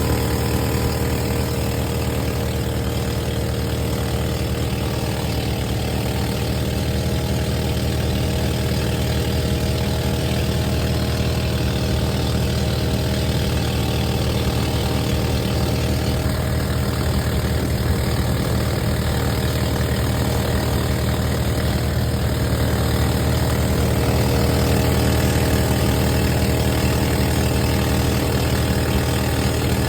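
An engine running steadily, a low droning hum that holds the same pitch and loudness throughout.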